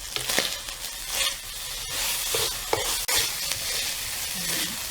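Ground pork filling sizzling in a hot pan while it is stirred, the spatula scraping and clicking against the pan many times.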